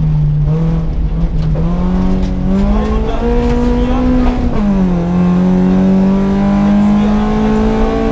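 A BMW 318ti E36 Compact's stock four-cylinder engine pulls hard, heard from inside the cabin. The revs climb over the first four seconds, drop sharply on an upshift about four and a half seconds in, then climb steadily again over road noise.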